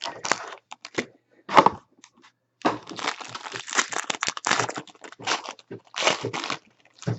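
Packaging of a box of trading cards being torn open: the wrapper crinkling and ripping in irregular bursts, busiest in the middle.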